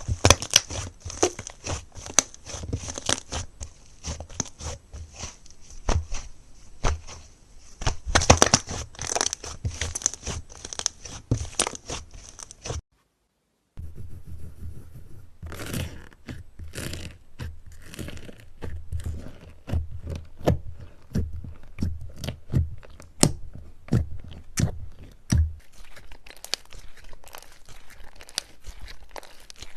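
Slime being squeezed and pressed by hand: a dense run of sticky pops and clicks. The sound drops out completely for about a second about 13 seconds in, then the popping resumes, lighter near the end.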